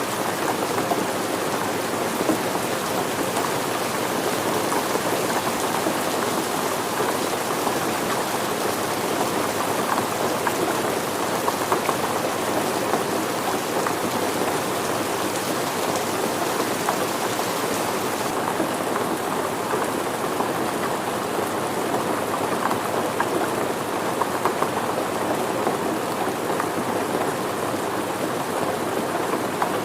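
Steady rain falling, an even, dense patter of drops. The highest hiss thins a little about two-thirds of the way through.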